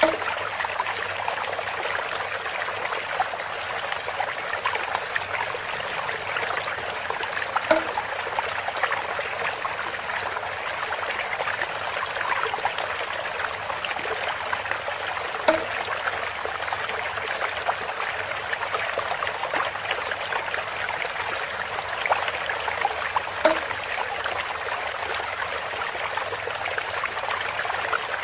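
Water trickling steadily through a bamboo spout. A short, brighter plop stands out about every eight seconds.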